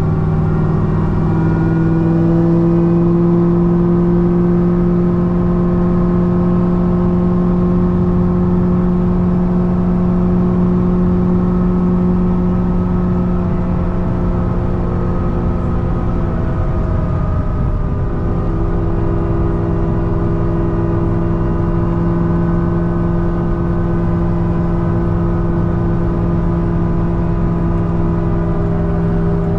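Supercharged 6.2-litre V8 of a modified C6 Corvette ZR1 with a Kong 2650 supercharger, cruising at a steady highway pace. The engine drone holds a nearly constant pitch, dipping slightly about a second in and shifting again a little past halfway.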